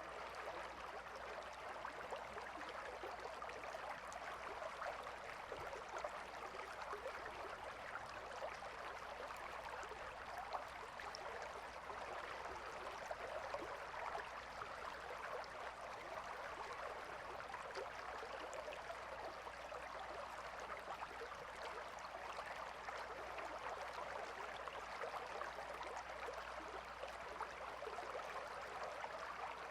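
A calm river flowing: a steady, faint rush of moving water with a fine, even trickle, unchanging throughout.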